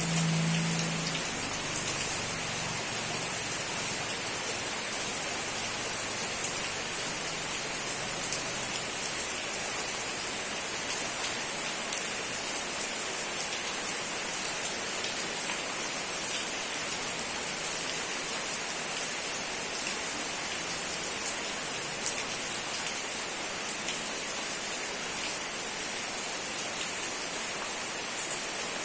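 Steady rain falling, with scattered ticks of individual drops striking a surface.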